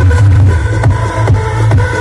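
Loud electronic dance music from a big parade sound system, with a very heavy bass and a steady beat of about two to three strokes a second.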